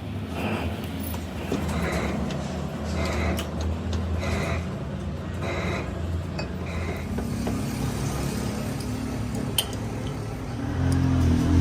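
A machine tool runs with a steady low hum. A higher scrape repeats about once a second, fading out in the second half, as metal is cut on the compressor crankshaft.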